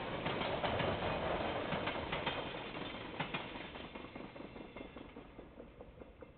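Freight train wagons rattling and clicking over the rails as the tail of the train moves away, fading steadily.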